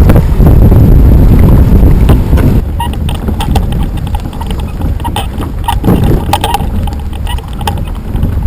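Wind buffeting the microphone, easing about two and a half seconds in, followed by scattered sharp knocks and clicks.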